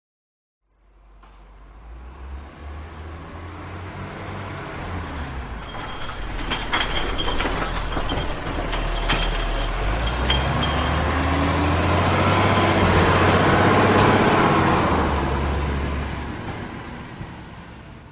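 Train passing by: a rumble that builds steadily for several seconds, peaks about two-thirds of the way through, then fades away near the end.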